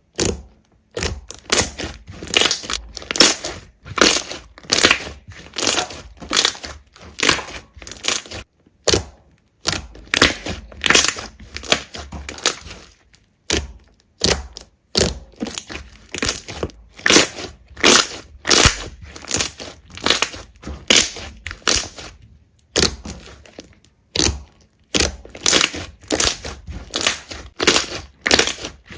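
Hands squeezing and pressing a large slime, making a run of short squishes roughly one to two a second, with a few brief pauses.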